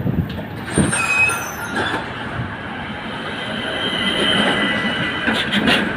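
Tram slowing into a stop, its steel wheels squealing against the rail with a thin high-pitched whine over a running rumble, then a few sharp clicks near the end.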